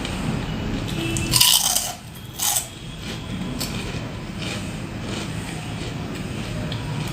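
Two loud, crisp crunching bites into a crunchy fried snack, about a second apart, the first the louder, over a steady low rumble.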